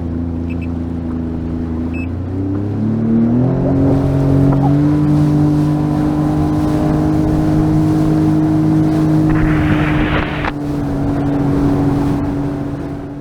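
Small boat's motor running, opening up about two to four seconds in so its pitch rises, then holding steady under way. A short rush of noise comes about ten seconds in.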